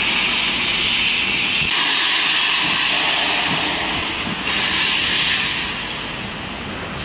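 Steam locomotive letting off a loud hiss of steam in a few overlapping gusts, dying down about six seconds in.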